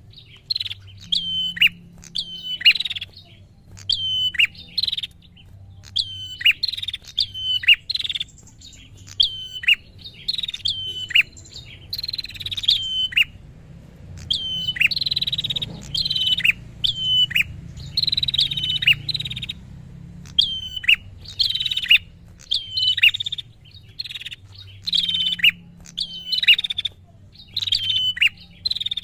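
A prinia (prenjak) singing without pause: a rapid run of short, sharp, high calls, many with a quick downward drop in pitch, about one to two a second with brief breaks. It is the excited, aggressive song used to lure and provoke rival prinias.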